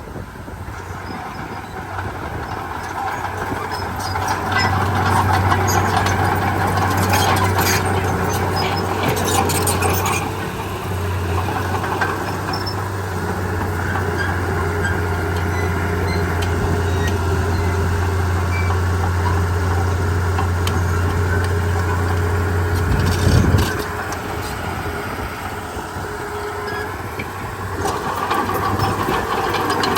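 Komatsu D31P bulldozer's diesel engine running steadily, with a spell of clattering a few seconds in and one heavy thump about two-thirds of the way through.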